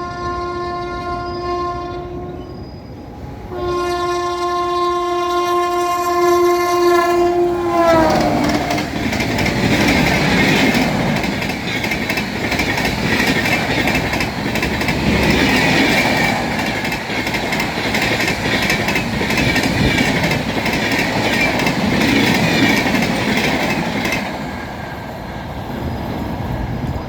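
WAP-7 electric locomotive's air horn sounding twice, the second long blast dropping in pitch as the locomotive passes at about 130 km/h. Then the express's coaches rush past with the loud roar and rapid clickety-clack of wheels on rail joints, which fades near the end.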